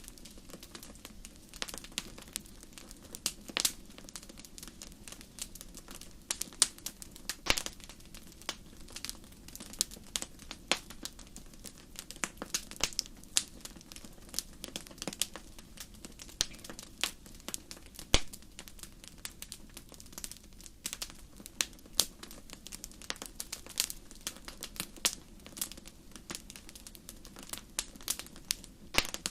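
Wood fire burning in a fireplace, crackling with irregular sharp pops, a few of them louder, over a faint steady low rush.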